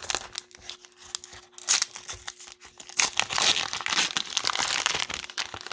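Plastic wrapper of a Mosaic football card pack crinkling and tearing open, the crackling heaviest over the last couple of seconds.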